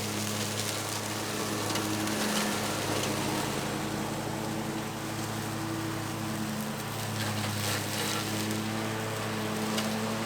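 Bad Boy Maverick zero-turn mower running at a steady engine speed with the blades engaged, a constant engine hum under a dense hiss as the blades cut through trail brush.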